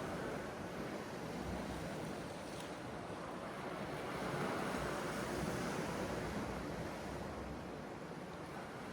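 Sea waves surging and washing on the shore, with wind; the surf swells louder about four to six seconds in.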